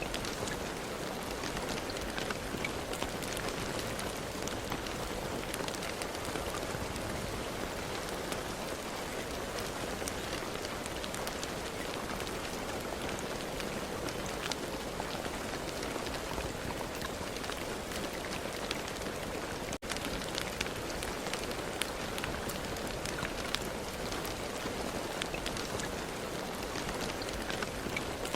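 Steady rain falling, a dense patter of individual drops hitting a surface over a continuous hiss, with a momentary break about twenty seconds in.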